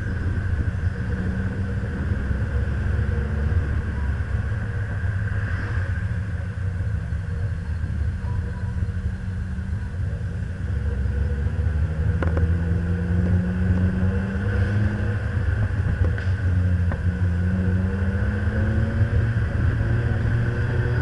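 Nissan Pulsar GTI-R's turbocharged SR20DET four-cylinder engine driving at road speed, its note climbing twice in the second half as the car accelerates. A heavy rumble of wind and tyre noise on the outside-mounted camera runs under it.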